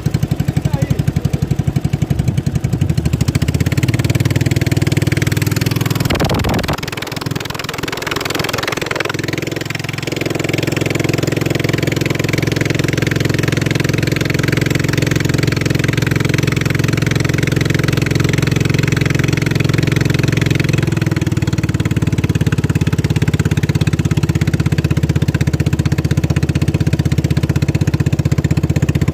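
Racing boat engine running steadily, with a brief dip and change in its note roughly six to ten seconds in.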